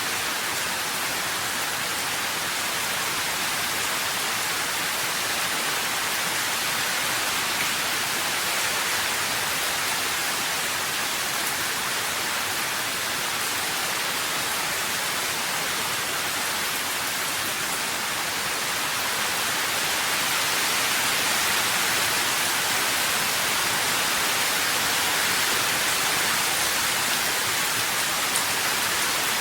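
Steady rain falling, a dense even hiss that is mostly high in pitch, swelling slightly past the middle, with no single drops or thunder standing out.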